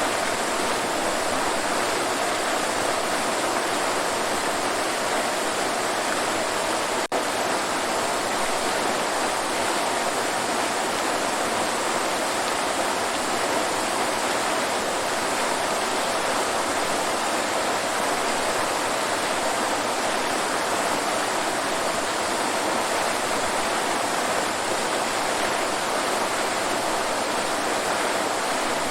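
Waterfall: a steady, continuous rush of falling water, with a momentary dropout about seven seconds in.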